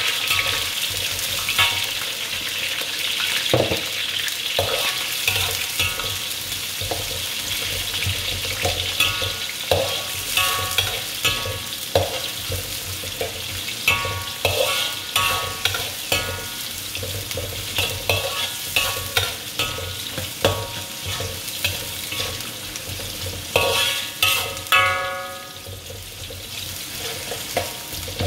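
Red onion, lemongrass and whole spices frying in hot oil with a steady sizzle. A utensil stirs and scrapes the pan throughout, giving repeated short ringing knocks.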